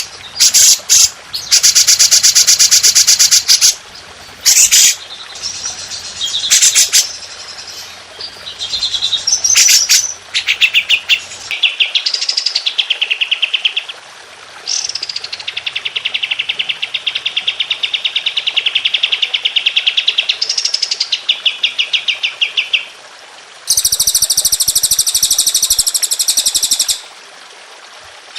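Loud songbird song made of fast trills of rapidly repeated notes, some phrases sweeping up and down in pitch, in a string of separate recordings that start and stop abruptly. These are rapid-fire 'tembakan' song phrases of the kind used as masteran for training caged songbirds.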